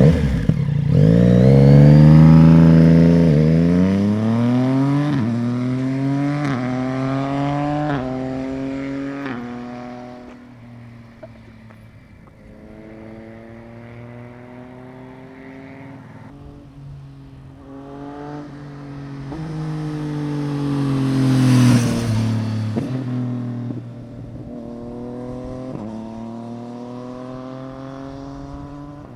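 Yamaha MT-09 (RN69) three-cylinder engine accelerating hard through the gears, its pitch climbing and dropping at each upshift as it pulls away and fades. It comes past again about twenty seconds in, loudest as it goes by with a drop in pitch, then upshifts away once more.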